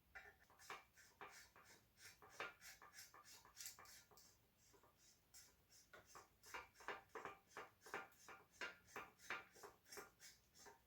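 A quick run of faint clicks and short scrapes, several a second, easing off around four to six seconds in before picking up again.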